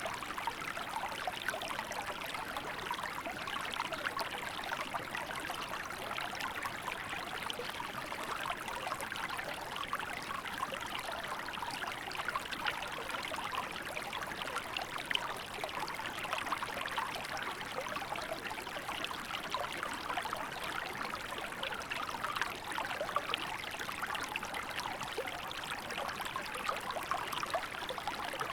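Small river flowing: a steady, unbroken sound of running water with a fine trickling texture.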